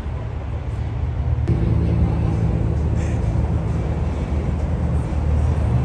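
Car engines running with a steady low rumble; the sound changes abruptly about a second and a half in.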